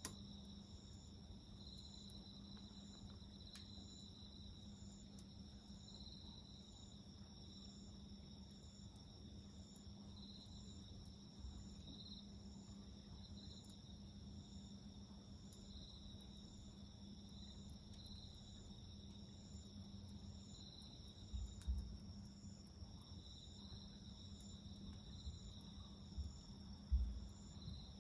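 Faint insect song, crickets among it: steady high trills pulsing every second or so. A low steady hum runs underneath, and two soft low thumps come near the end.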